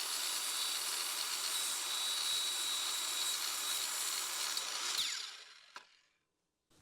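An old electric power saw cutting through a wooden board: a steady, loud rasp with a high whine, which winds down about five seconds in as the cut ends.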